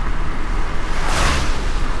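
Car driving in light rain: steady low road and tyre rumble with a hiss of rain and wet road, and a brief whoosh about a second in.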